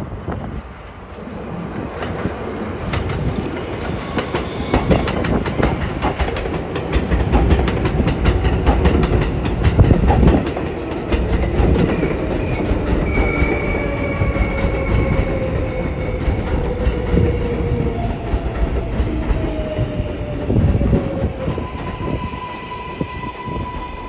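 R188 subway train running on the 7 line, with a loud rumble and wheels clattering over the rail joints that builds to a peak partway through. From about halfway a whine sets in that falls slowly in pitch, over steady high-pitched tones, and near the end a steady mid-pitched tone takes over.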